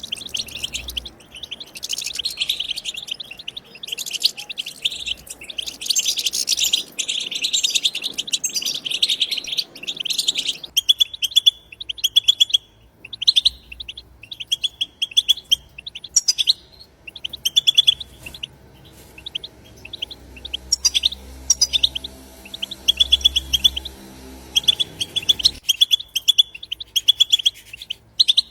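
Wild European goldfinches singing: fast twittering and trilling chatter, dense and overlapping for roughly the first ten seconds, then sparser, repeated short trills.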